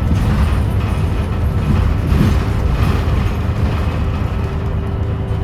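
Interior ride noise of a 2017 New Flyer XDE40 diesel-electric hybrid city bus under way: a steady low drivetrain and road rumble with a faint steady tone joining about four seconds in.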